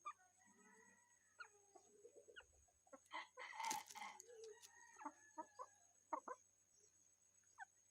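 Rooster clucking with short calls, faint, with one louder call lasting about a second near the middle.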